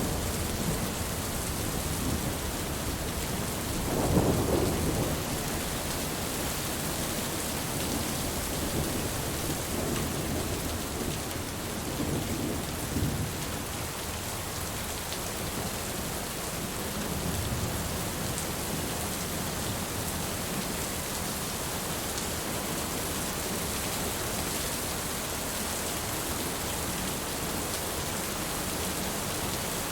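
Steady heavy rain hissing, with low rolls of thunder rumbling under it; the strongest roll swells about four seconds in, and weaker ones come later.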